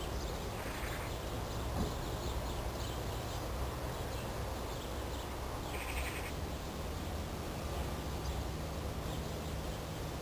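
Two short harsh bird calls of about half a second each, one near the start and one about six seconds in, over a steady low rumble and hiss.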